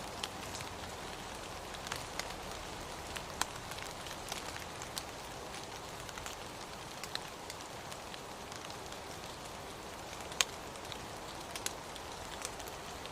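Steady rain with scattered sharp drops hitting a surface, the loudest about ten seconds in.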